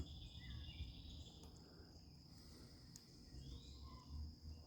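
Faint evening chorus of crickets or other insects, a steady high-pitched trill, with a few faint bird chirps.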